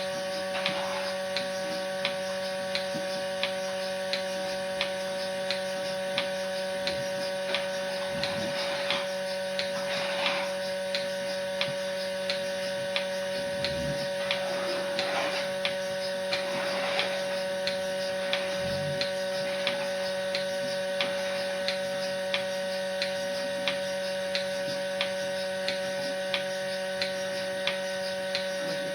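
A machine's steady electrical hum, with a sharp regular click about one and a half times a second.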